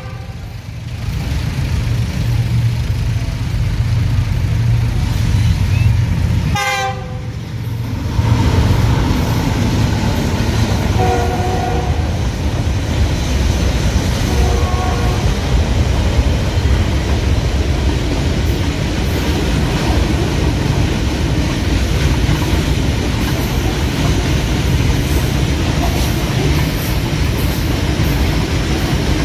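A train running with a steady, heavy low rumble that dips briefly about seven seconds in, with a few short tones near the middle.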